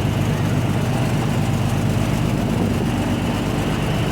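Steady roar of an indoor skydiving vertical wind tunnel: its fans and the rushing column of air running at flying speed.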